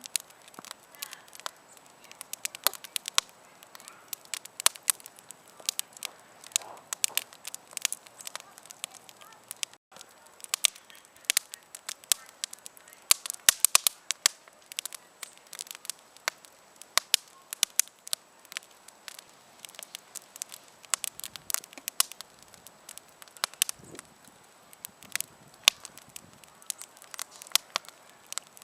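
Wood campfire crackling, with a steady stream of irregular sharp pops and snaps from the burning wood.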